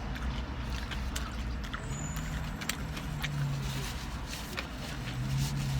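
Car engine idling with a low steady hum, with small clicks and crunches of eating over it.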